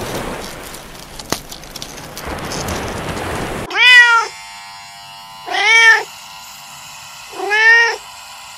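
A steady rushing noise cuts off abruptly about three and a half seconds in. A domestic cat then meows three times, each meow short and arched in pitch, roughly two seconds apart.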